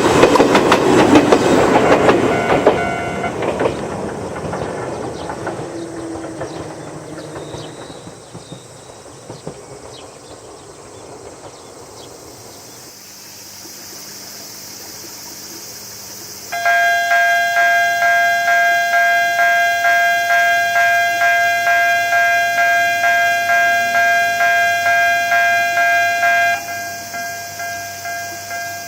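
An Ichibata 2100 series electric train passing with wheel clatter, fading away over the first several seconds. After a quiet stretch, a level-crossing warning bell starts ringing about two-thirds of the way in, about two dings a second, and turns quieter near the end.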